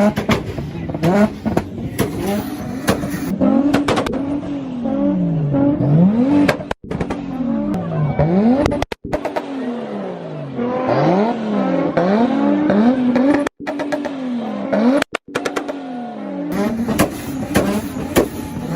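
Modified car engines revving up and down again and again, breaking off abruptly a few times.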